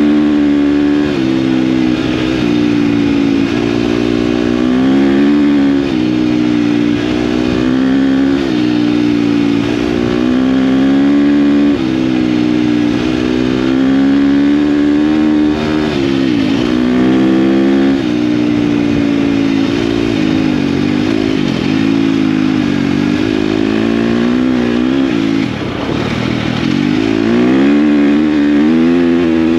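KTM dirt bike engine being ridden, its revs rising and falling over and over as the throttle opens and closes. It drops back briefly a few seconds before the end, then climbs again.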